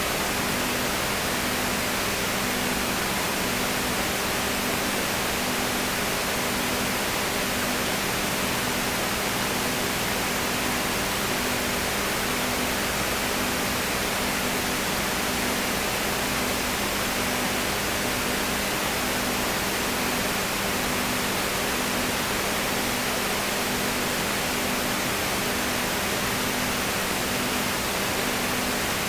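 Steady hiss with a low hum beneath it, one tone of which pulses on and off about once a second.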